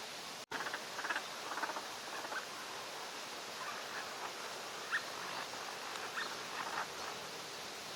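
Northern pintails calling: scattered short, soft chattering calls throughout, with a brief higher note about five seconds in, after a momentary dropout half a second in.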